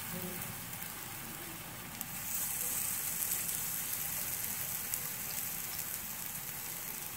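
Zeera kababs frying in hot oil on a flat tava: a steady sizzle that grows louder about two seconds in.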